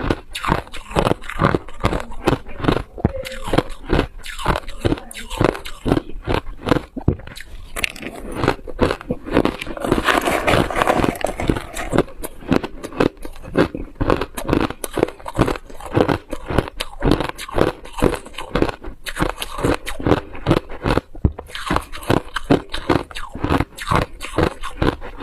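A person biting and chewing ice: a continuous run of rapid, sharp crunches, thickest a little before the middle.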